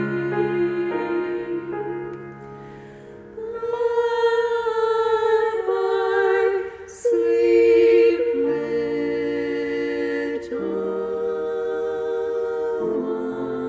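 A vocal trio singing a slow Christmas lullaby in close harmony on long held notes, with no clear words. It softens about two seconds in and swells again a second later.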